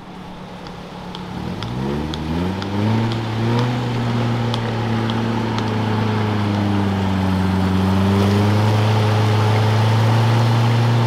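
Four-wheel-drive vehicle's engine revving up over about a second, then held at steady raised revs with a slight waver, as it works through deep muddy ruts on the track.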